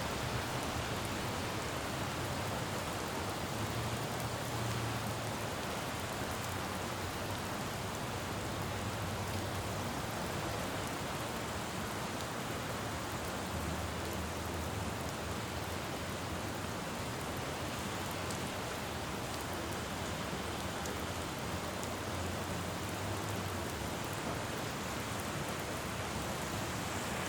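Steady rain falling on a city road, an even hiss throughout, with a faint low hum of distant traffic swelling and fading a few times.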